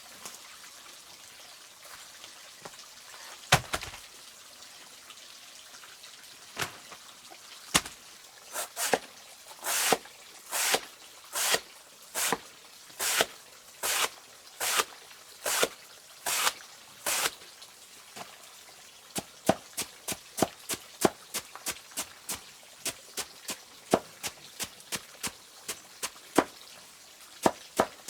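Rhythmic manual work: a run of even scraping strokes, about one a second, followed by quicker sharp knocks, two or three a second.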